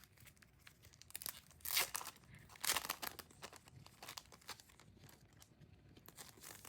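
CD packaging being handled and torn open: crinkling and tearing with scattered small clicks, loudest in two brief rustles about two and three seconds in.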